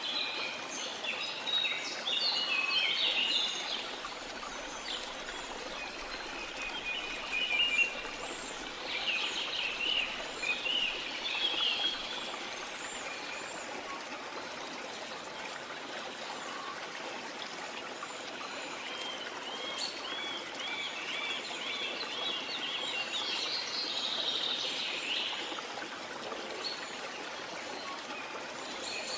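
Several birds singing and calling in bouts, including a run of quickly repeated chirping notes in the second half, over a steady rush of running water.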